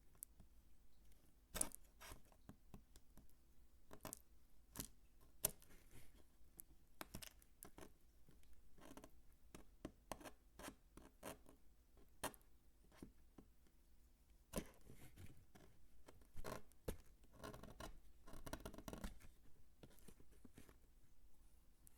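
Dry bar soap being cut and crunched close to the microphone: sharp, crisp clicks at an uneven pace, about one a second, with a quicker run of crunches about three-quarters of the way through.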